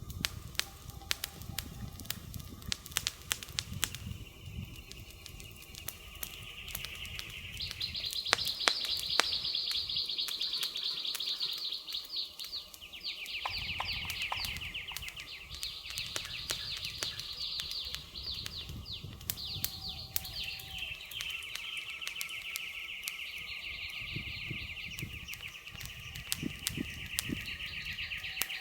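Campfire crackling, with sharp pops scattered throughout over a low rumble of burning. From about six seconds in, a high, rapid trilling from forest wildlife joins the fire. It runs in long stretches that switch between a higher and a lower pitch.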